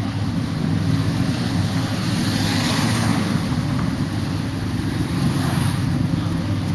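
Street traffic going by, with wind rumbling on the microphone; a passing vehicle swells louder about two to three seconds in.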